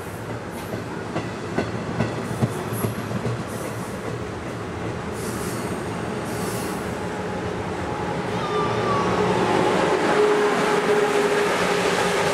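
MARC bilevel commuter train passing at speed, its wheels clicking sharply over rail joints in the first few seconds. After about eight seconds it grows louder and a steady whine comes in as the electric locomotive at the end of the train goes by.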